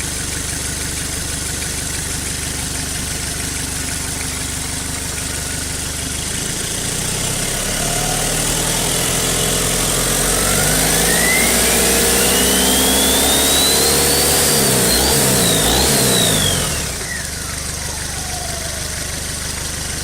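Toyota 3L four-cylinder diesel engine idling, then revved up a few seconds in and held for several seconds before dropping back to idle. A turbocharger whine climbs steadily in pitch with the revs and winds down slowly after the throttle is let off.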